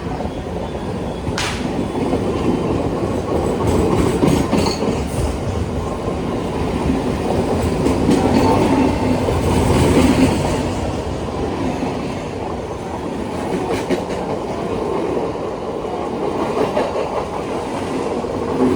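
A train running past close by: a steady rumble of wheels on the rails that swells and eases, with a sharp click about one and a half seconds in.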